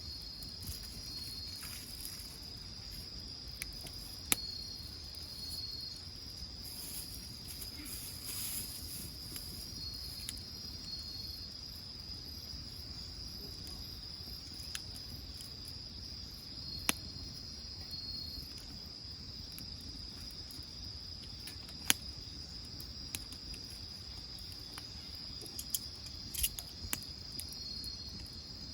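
Insects trilling without a break, one high steady trill joined every five or six seconds by a shorter double note. A few sharp pops from a wood fire crackling cut in, the loudest about 4, 17 and 22 seconds in.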